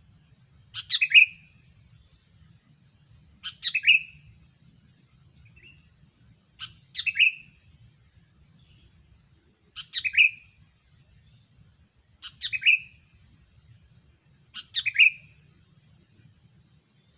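Sooty-headed bulbul (kutilang) calling: six short, bubbly phrases of a few quick notes each, repeated about every three seconds.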